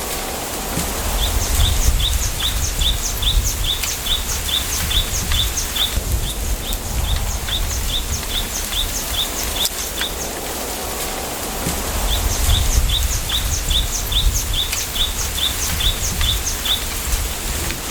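Wind through a bamboo grove, rumbling in gusts on the microphone. Over it, a bird repeats a short high chirp about three times a second, in long runs with brief pauses between.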